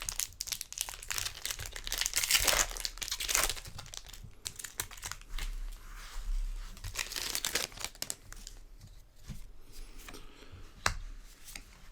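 Foil booster-pack wrapper being torn open and crinkled in bursts, with a few sharp clicks near the end.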